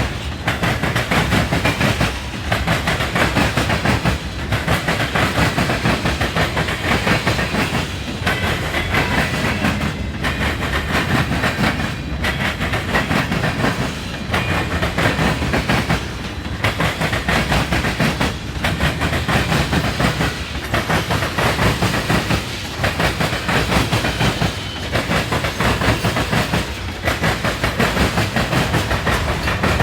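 Freight cars of a manifest train rolling past, their wheels clicking over rail joints in a steady clatter that dips briefly about every two seconds.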